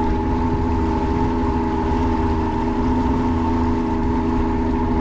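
Boat motor running steadily at a constant low setting, with a steady hum made of several fixed tones over a low rumble.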